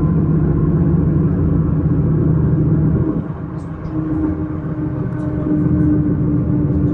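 Electric commuter train running, a steady rumble with humming tones from the electric drive. About three seconds in the tones change pitch and the sound briefly drops a little.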